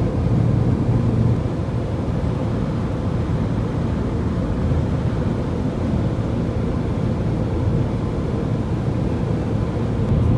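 Steady car cabin noise: a low engine hum and road rumble inside a vehicle.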